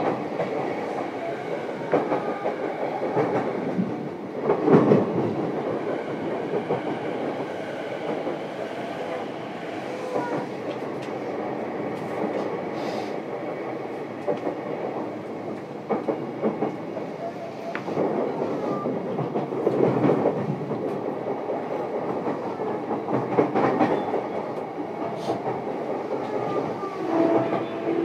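Interior running noise of a JR East E233-7000 series electric train, heard inside motor car MoHa E233-7431: a steady rumble of wheels on rail, with a few louder thumps from the track.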